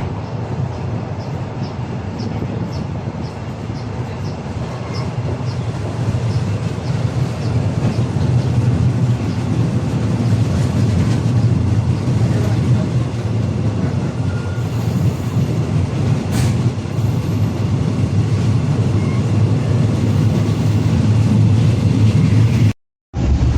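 Passenger train running on the rails: a steady low rumble, with faint regular ticking in the first few seconds, growing louder a third of the way in. The sound cuts out for a moment near the end.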